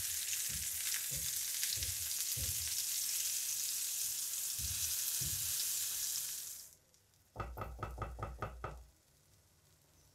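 Hot oil sizzling in a frying pan as tomato slices and egg fry, with soft knocks of the spatula and chopsticks against the pan. The sizzle cuts off suddenly about two-thirds of the way through, followed by a quick run of about eight rhythmic taps.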